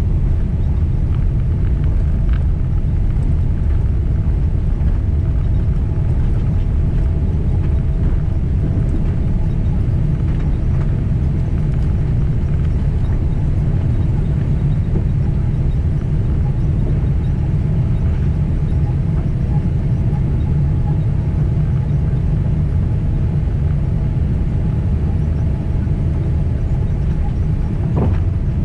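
Boeing 767 cabin noise from a window seat: a steady low rumble of the jet engines and airflow, with faint steady tones above it.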